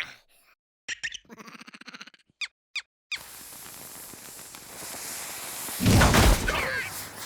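Cartoon sound effects: a string of short squeaky chirps and character squeals, then a steady rushing noise that swells into a loud, heavy whoosh about six seconds in.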